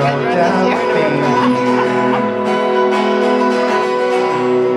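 Acoustic guitar playing sustained chords, amplified and played live.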